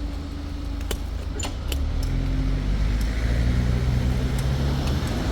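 A steady tone stops about a second in, followed by a few sharp clicks. Then a vehicle's engine rumble builds up and grows louder as it passes over the level crossing.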